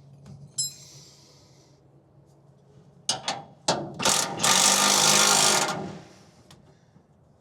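A power wrench running the top bolt of a rear shock absorber down tight: three short bursts, then one continuous run of about two seconds. A light metallic clink comes under a second in.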